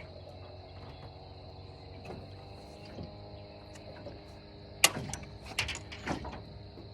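A few sharp clicks and knocks in the second half, gear being handled while a just-landed bass is dealt with, over a faint steady hum and a thin high insect-like tone.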